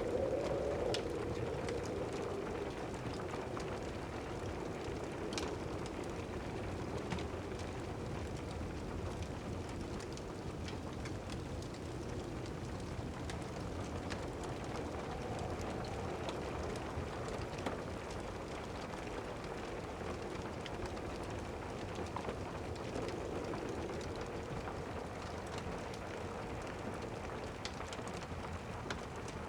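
Steady rain with scattered sharp crackles from a fireplace fire.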